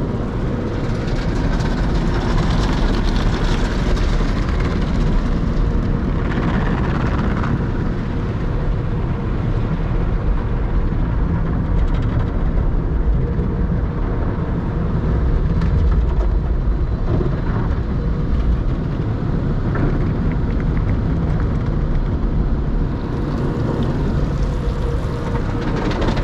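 Automatic tunnel car wash working over a car, heard from inside the car: a loud, steady rush and rumble of water spray and wash equipment against the body.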